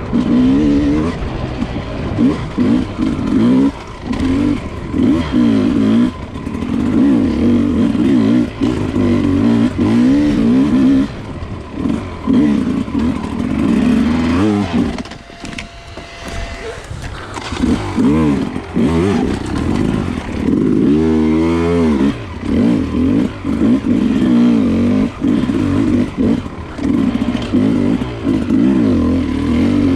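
Enduro dirt bike engine revving up and down constantly as the throttle is worked. About halfway through it drops to a quieter lull, then revs hard up and down again.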